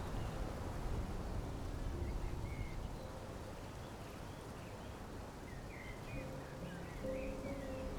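Low background rumble with faint bird chirps now and then; a few steady held tones come in near the end.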